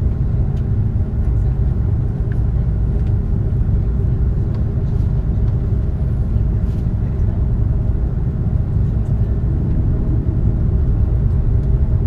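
Cabin noise inside a taxiing Airbus A330 airliner: a steady low rumble of the engines at taxi power and the rolling landing gear, with a faint constant hum and a few faint clicks.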